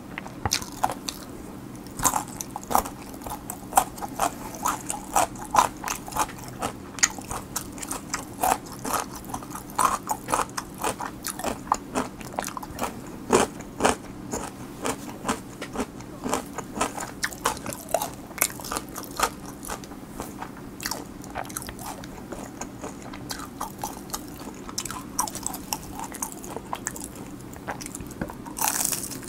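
Close-miked chewing of crunchy pickled radish cubes: a run of wet crunches and clicks, several a second, thinning out after about twenty seconds. Near the end a bite into crispy honey-butter-garlic fried chicken gives a louder crackling crunch.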